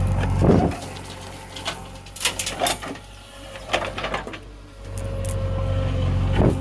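Diesel engine of heavy earth-moving machinery running steadily. It drops away about a second in and comes back near the end. In between come several sharp knocks and clatters, and a heavy thump falls just before the end.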